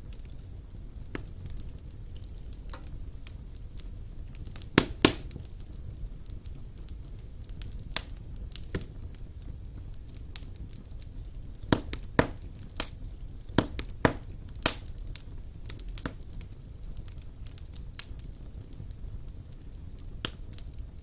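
Wood fire burning in a fireplace: a steady low rumble of flames with irregular sharp crackles and pops of burning logs, the loudest pair about five seconds in and a cluster between twelve and fifteen seconds.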